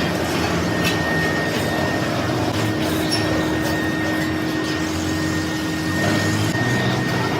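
Metalworking machine tool running steadily, with a steady high tone and a lower hum over its running noise.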